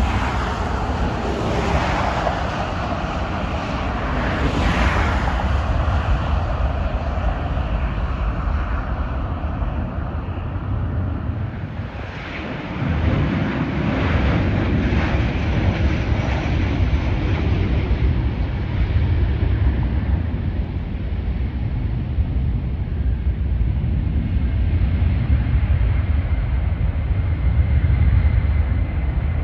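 Jet airliner passing, a steady broad engine noise with a deep rumble; the high hiss fades away after the first few seconds, and the sound dips briefly and swells again about midway.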